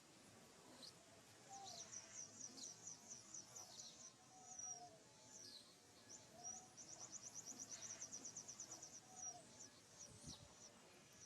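Faint birdsong: two rapid high trills of evenly repeated notes, with scattered short chirps and a few lower whistled notes.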